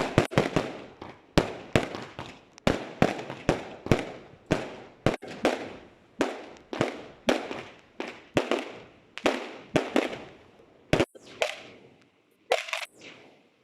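Fireworks shells bursting in a rapid barrage, about two bangs a second, each trailing off in an echo. The barrage thins out and stops near the end.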